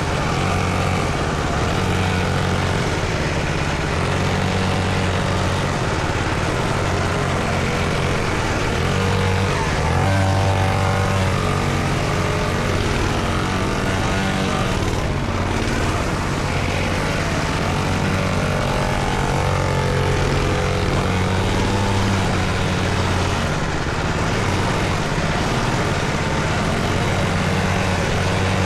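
Small dirt bike engine running steadily, its revs rising and falling a couple of times.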